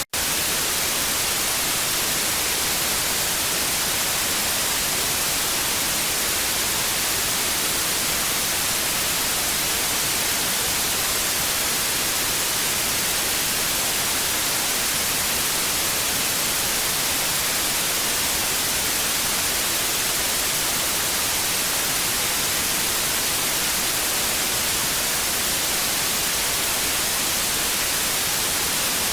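Television static hiss: a steady, even rush of noise, strongest in the high end, broken only by a split-second gap at the very start.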